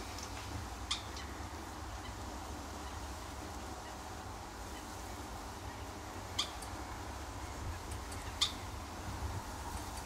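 Three short, sharp high call notes of small birds at a seed feeder, about a second in and twice more near the end, over a low steady rumble.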